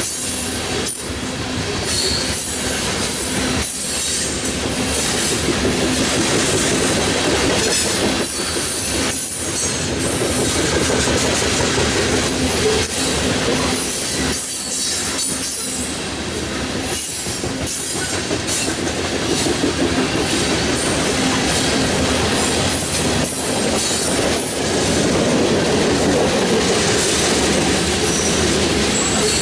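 Freight train of grain hopper cars rolling past at speed: a continuous loud rumble and rattle of wheels and car bodies, with irregular clicks of wheels over the rail joints.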